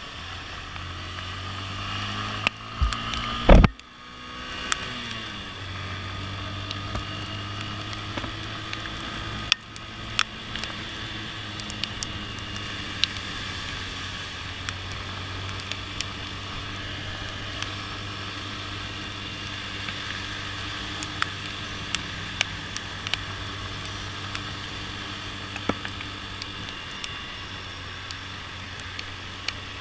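Motorcycle engine running with a steady low hum; a loud knock about three and a half seconds in, after which the engine note rises as it speeds up. Scattered sharp ticks throughout.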